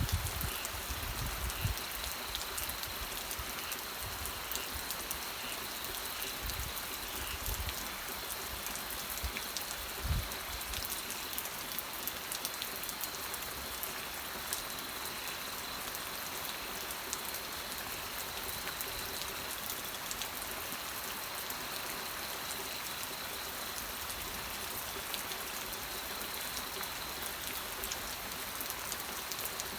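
Steady rain falling, a dense patter of drops on surfaces, with a few low rumbles in the first ten seconds.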